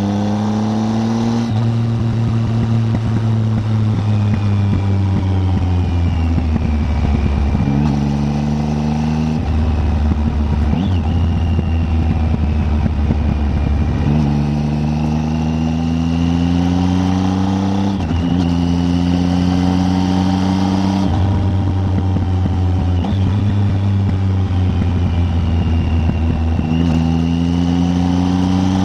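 Triumph Tiger 800 three-cylinder motorcycle engine under way on the road. Its note climbs steadily and then drops sharply, again and again, as the rider changes gear.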